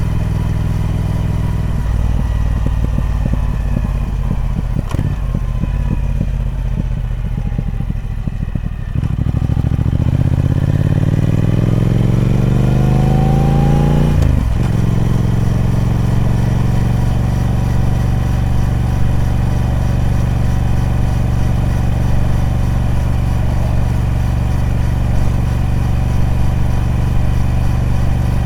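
Triumph Speed Twin 1200's parallel-twin engine through its stock exhaust. The note drops away for several seconds, climbs for about five seconds, dips sharply about halfway through as at a gear change, then holds steady.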